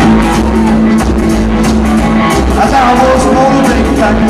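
Rockabilly band playing live and loud, with the drums keeping a steady beat of cymbal hits under the guitar and bass.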